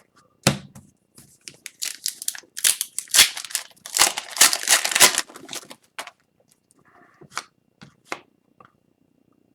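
Crinkling and tearing of a trading-card pack wrapper being opened by hand, densest from about two to five and a half seconds in, with scattered light clicks of cards being handled.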